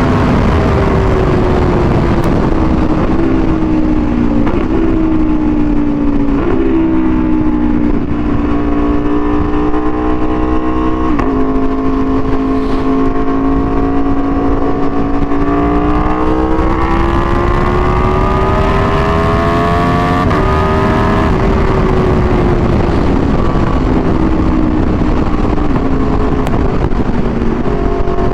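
Aprilia Tuono V4 1100's 65-degree V4 engine through an SC-Project exhaust, heard under way: the engine note jumps abruptly in pitch several times in the first half, climbs steadily for a few seconds past the middle, then drops and falls away, over a constant low rumble.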